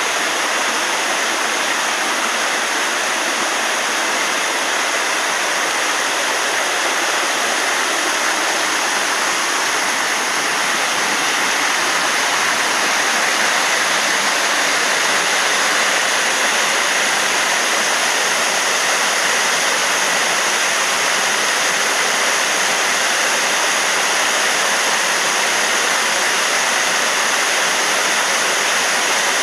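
Waterfall pouring steadily: a loud, even rush of falling water that swells slightly about twelve seconds in.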